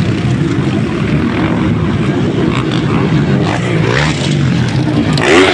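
Motocross bike engines running on the track, their pitch rising and falling as the riders work the throttle.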